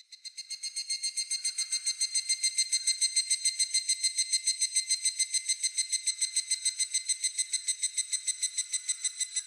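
A higurashi (evening cicada) calling: a high-pitched, rapid pulsing trill of about eight pulses a second that swells up over the first two seconds, then holds steady.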